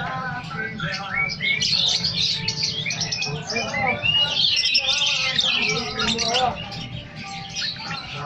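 Many songbirds chirping and calling at once, a dense overlapping chatter of quick high notes.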